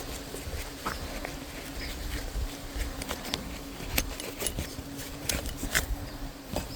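Steady low insect buzzing that fades out near the end, with scattered light clicks and knocks around it.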